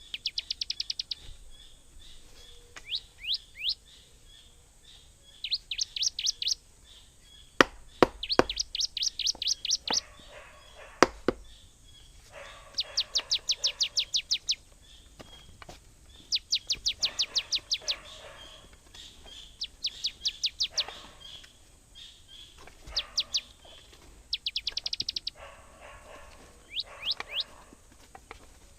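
A bird calling in repeated trills, each about a second of rapid high notes sweeping down in pitch, with short pauses between them. A few sharp knocks about eight and eleven seconds in are the loudest sounds.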